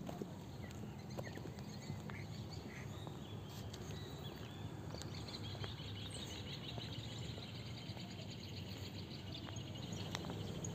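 Faint outdoor ambience with a steady low rumble. A bird chirps a rapid, evenly paced run of high notes from about three and a half seconds in until near the end.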